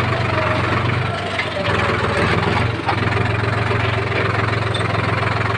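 Heavy diesel engine running steadily at low revs, its note dipping briefly about a second in and again near three seconds.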